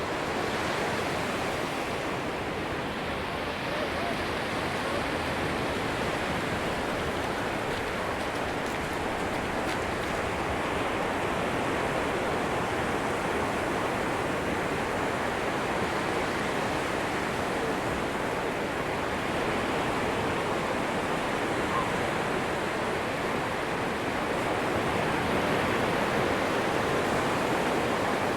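Atlantic Ocean surf washing onto a sandy beach: a steady rush of waves that grows a little louder near the end.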